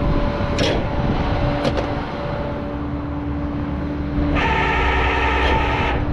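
Vehicle engine idling with a steady low rumble. Two sharp metallic clicks come about a second apart early in the sound, and about four seconds in a steady mechanical whine sets in for over a second.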